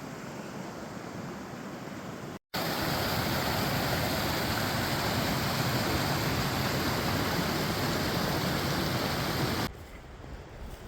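Rushing water of a cascading waterfall: a steady, even roar of noise. It jumps much louder after a cut about two and a half seconds in and drops back abruptly near the end.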